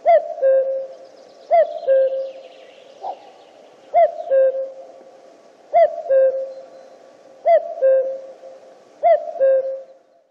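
Male common cuckoo (Cuculus canorus) giving its 'cu-coo' call: a higher note falling to a lower one, repeated six times at steady intervals of about one and a half to two seconds.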